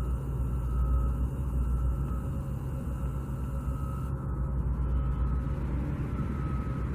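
Steady low outdoor rumble of vehicle or machinery noise, with a faint steady high whine.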